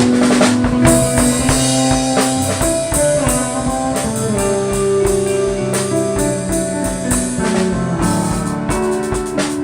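A band playing a song: drum kit keeping a steady beat under bass and guitar, with held melody notes that step from one pitch to the next.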